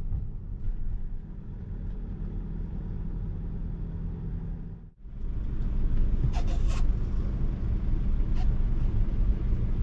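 Vehicle engine running with a steady low rumble and hum. About halfway through it drops out for a moment and comes back louder, with a few faint clicks.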